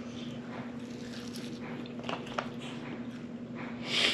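Close-miked eating sounds of someone chewing a grilled pork chop: wet chewing and mouth smacks with a couple of small clicks, then a short breathy hiss near the end, over a steady low hum.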